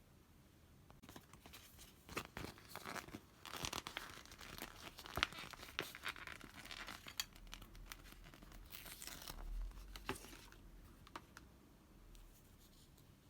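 Tearing and crinkling of thin wrapping, with many small sharp clicks and taps, in spells that fade out near the end.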